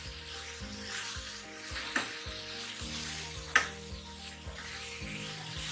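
Keema masala sizzling in a frying pan around stuffed capsicums as a wooden spatula stirs it. The spatula knocks against the pan twice, about two seconds in and again a second and a half later. Soft background music plays underneath.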